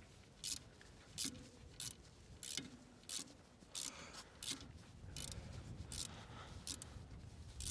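Socket ratchet clicking in short, irregular strokes, about one every half second to second, as a loosened bolt on the brake is wound out.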